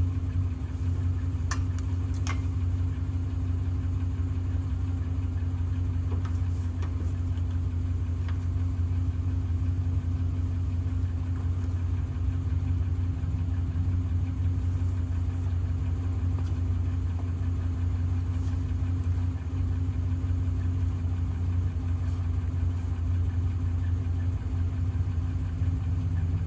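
Pickup truck engine idling steadily, with a couple of sharp clicks a second or two in.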